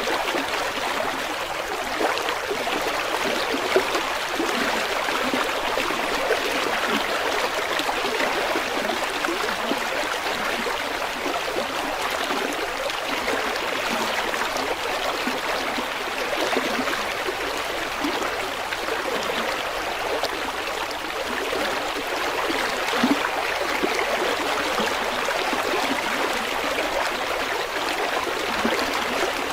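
River water flowing over rocks, a steady rushing with constant small splashes and gurgles.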